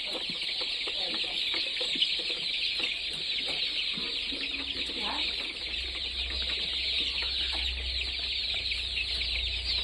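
A flock of chickens calling: a dense, continuous high-pitched chatter of many birds, with scattered lower calls. A low rumble comes in about halfway through.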